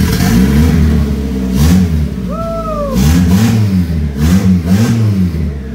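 Turbocharged Honda CR-V four-cylinder engine, just started for the first time after a turbo install, being revved in a series of short blips, about six, each rising and falling in pitch.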